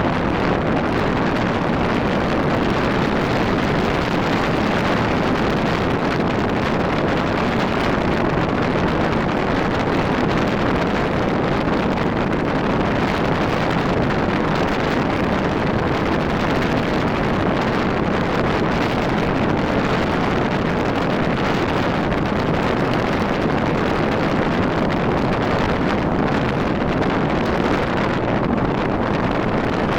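Steady wind rushing over the microphone on a moving Rusi RFI 175 motorcycle, with the motorcycle's engine and road noise under it.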